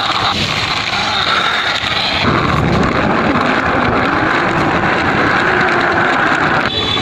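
A motor vehicle's engine running steadily, its sound shifting about two seconds in and again near the end.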